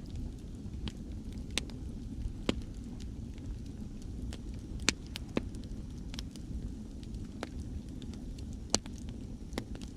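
Wood campfire crackling, with irregular sharp pops, the loudest about halfway through and near the end, over a steady low wash of sea waves.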